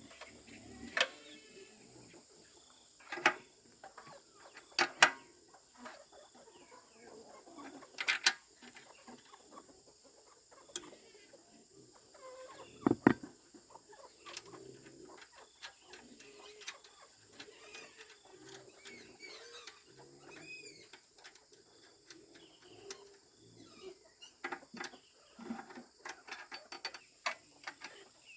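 Chickens clucking, with a few sharp knocks scattered through and a run of small ticks near the end.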